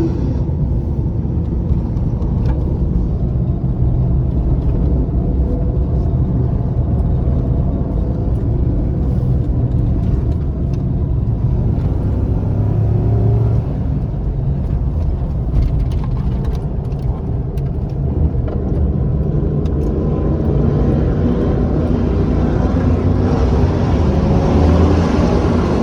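Pace truck engine and road rumble, heard from inside the moving truck, with the engine pitch rising and falling. The sound grows louder and brighter a few seconds before the end, as if accelerating.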